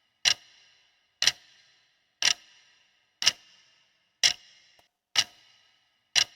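Ticking clock sound effect marking a quiz answer countdown: one sharp tick a second, each with a short ringing tail.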